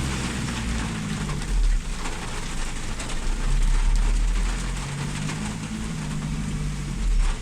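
Heavy rain pouring down in a steady hiss. A motor vehicle's engine hums in the background, plainest at the start and again about five seconds in.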